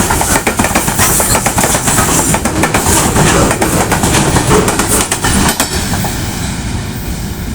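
Goods train passing close by, its wagon wheels clattering over the rail joints. The clatter thins out and fades about five and a half seconds in.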